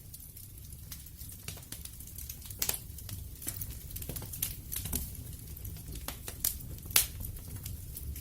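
Wood fire crackling: irregular sharp snaps and pops over a low rumble of burning, with one louder pop about seven seconds in.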